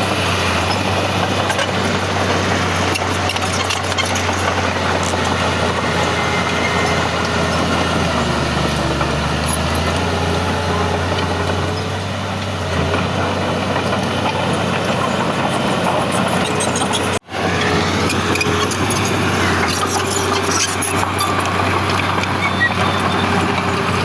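Heavy diesel earthmoving machinery running steadily, a deep engine hum under a broad mechanical din, with a momentary break in the sound about seventeen seconds in.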